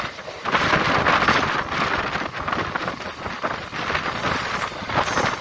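Mumbai suburban local train running at speed, heard from its open doorway: the steady rush and clatter of the train on the rails, with wind buffeting the microphone.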